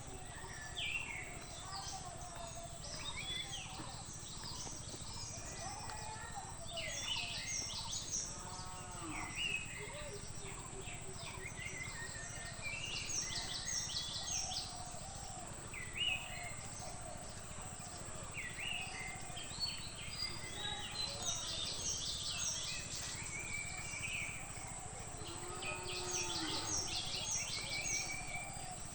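Several birds chirping and calling, with clusters of quick, high, downward-sweeping chirps repeated in rapid series, over a steady low background rumble.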